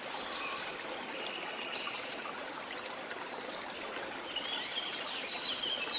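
Steady rush of a waterfall, with birds singing over it: short whistled notes throughout and a run of quick chirps near the end.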